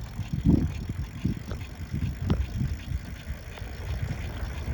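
Wind rumbling on a phone microphone while riding a bicycle, with scattered small knocks and rattles from the bike.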